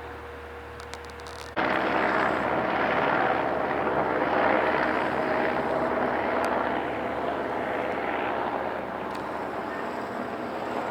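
Loud engine drone with several steady tones, starting abruptly about one and a half seconds in and slowly weakening, after a quiet steady hum.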